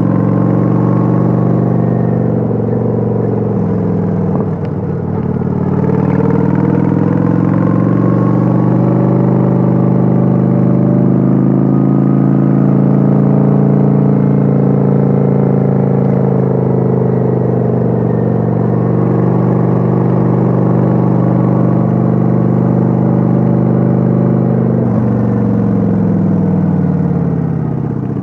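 Kawasaki Vulcan 900's V-twin engine heard from on board while cruising. The engine note dips and climbs back about four seconds in, holds steady, and falls away near the end.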